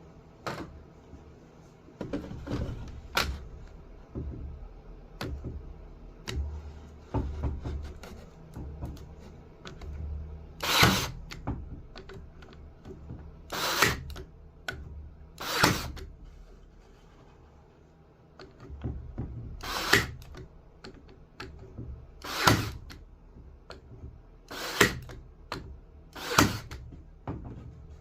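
Workshop work on a table-saw sled: a string of sharp knocks and short, loud tool bursts, about eight strong ones spaced a couple of seconds apart in the second half, with smaller clicks and clatter from handling between them.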